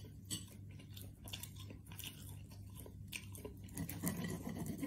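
Quiet eating sounds: a person chewing food, with small scattered clicks and scrapes of a metal knife and fork on a ceramic plate as food is cut.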